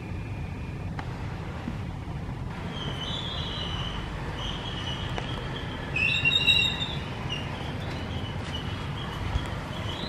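High-pitched bird chirps and short whistles, repeated from about three seconds in and loudest around six to seven seconds, over a steady low rumble.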